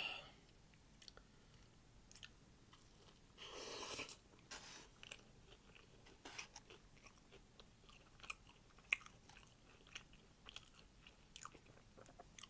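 A person chewing food close to the microphone, with scattered soft mouth clicks and smacks. A short, louder noisy sound comes about three and a half seconds in.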